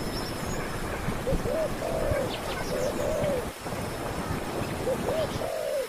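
A bird giving short, low, arched calls over and over, several in quick succession, against a steady background noise.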